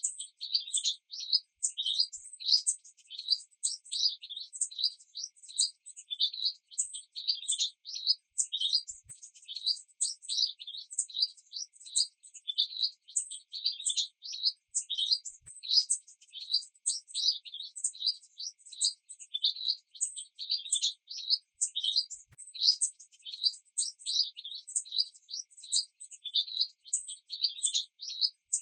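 A small bird chirping rapidly and repeatedly, about three short high chirps a second, in a steady unbroken run.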